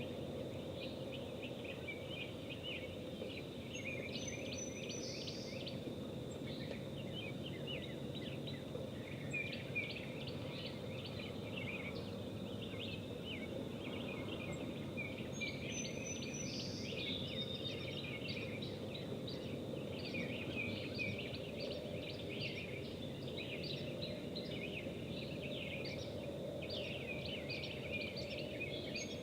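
Wild birds chirping and singing on and off, one song phrase coming back about every twelve seconds, over a steady low background rumble.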